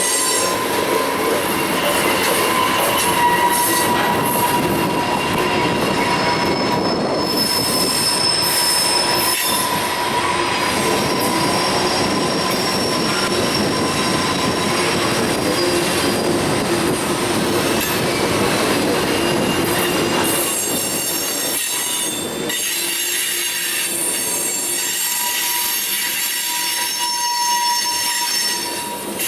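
Railcars rolling past with their wheels squealing in several steady, high, thin tones over the rumble of the train. The low rumble eases off about two-thirds of the way through while the squeal carries on.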